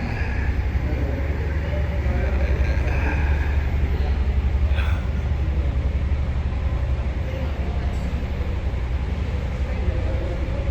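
Narrowboat's diesel engine running steadily with a low, even throb, heard inside a canal tunnel.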